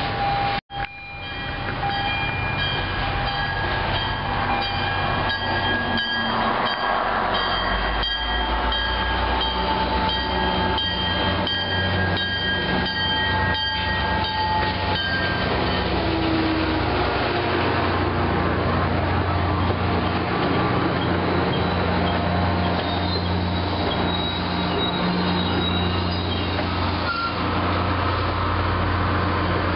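MBTA diesel commuter train arriving: its horn sounds in steady tones through roughly the first half, then the low steady rumble of the train and its passenger coaches rolling slowly past.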